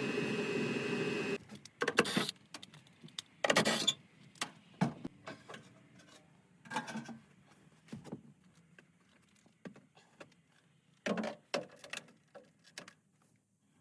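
Gas furnace blower running with a steady hum, cutting off abruptly about a second and a half in, followed by scattered knocks and metallic clanks of the furnace panels and tools being handled.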